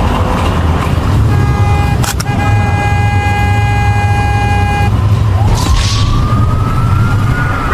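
A car horn held steadily for about three and a half seconds over road and engine rumble. Then a police siren starts a rising wail about five seconds in and begins to fall near the end.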